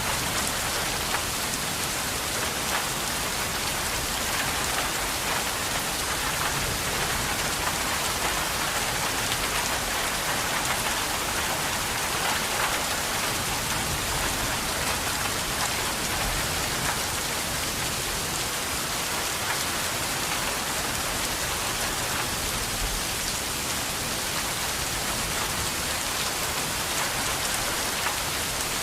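Steady rain falling: a continuous, even hiss, flecked with many small drop impacts, that holds at the same level throughout.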